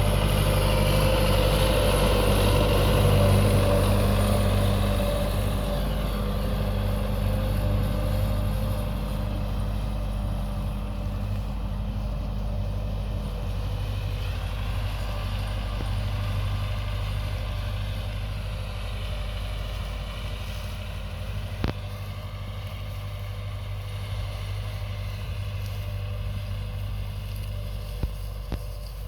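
Tractor engine running steadily, slowly growing quieter as it moves away. A single sharp click about two-thirds of the way through.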